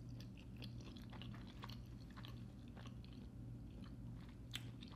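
Faint chewing of a bite of pizza topped with Alfredo sauce, with small scattered mouth clicks and one slightly louder one near the end, over a low steady hum.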